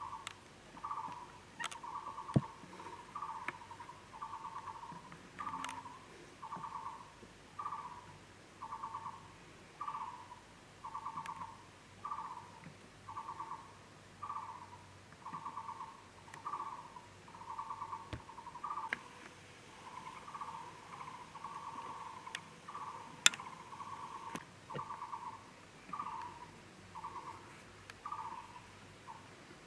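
A bird calling a short, buzzy note over and over, about four notes every three seconds. A couple of sharp clicks stand out over the calls.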